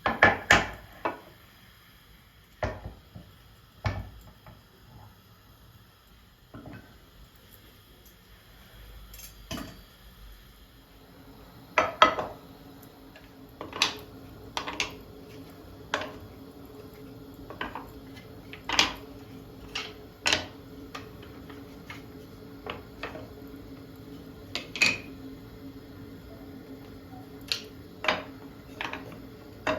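Dishes and cutlery being handled: scattered clinks and knocks of crockery and utensils. About a third of the way in, a steady low hum starts and runs under the clinks.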